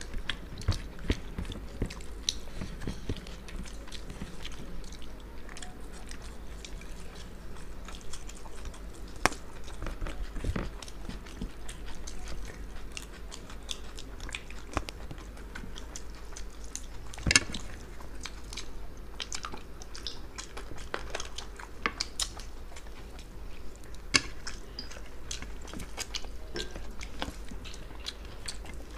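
Close-up eating sounds of two people chewing and biting mutton biryani and chicken: wet chewing with many sharp clicks, a few of them louder, over a faint steady low hum.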